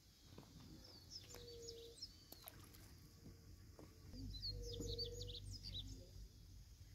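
Wild birds chirping: quick, high, sweeping calls in two bouts, about a second in and again from about four to six seconds in. Short, steady, low notes come in between, and a low rumble rises in the second half.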